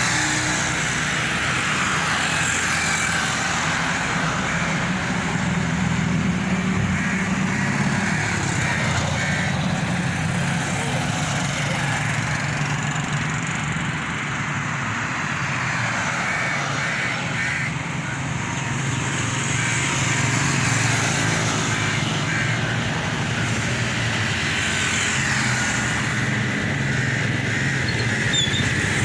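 Tractor engine running steadily, a continuous low drone that eases off a little about halfway through.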